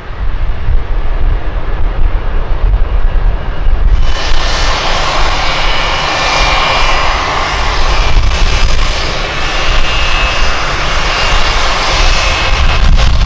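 Jet airliner's engines passing close by: a loud rushing noise with a thin high whine on top comes in suddenly about four seconds in and holds. Low wind buffeting on the microphone runs underneath.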